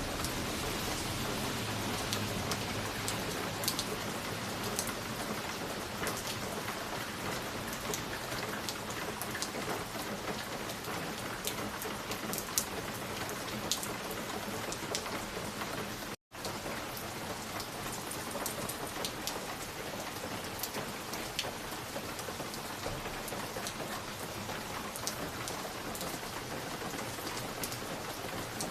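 Wood fire crackling in a fireplace: a steady hiss with many scattered sharp pops and crackles. About sixteen seconds in it cuts out for an instant.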